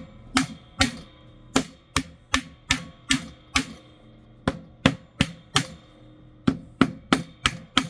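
Hammer driving long nails into the pre-drilled wooden front of a birdhouse kit: about nineteen sharp taps in quick runs of three to six, roughly three a second, with short pauses between runs.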